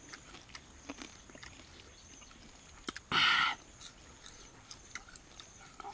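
Chewing and crunching fried crickets, with small crisp clicks throughout. About three seconds in, one short, loud call or cry lasting about half a second stands out as the loudest sound.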